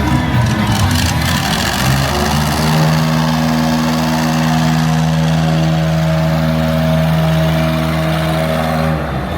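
An engine running at a steady speed, its hum holding one pitch; it comes in about two seconds in and stops just before the end.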